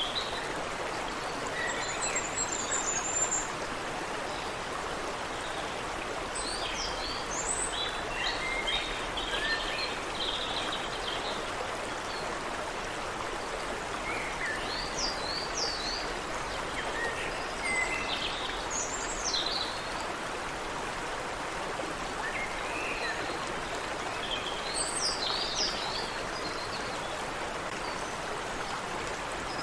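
Creek water running steadily, with birds calling over it in scattered bursts of short chirps and whistles.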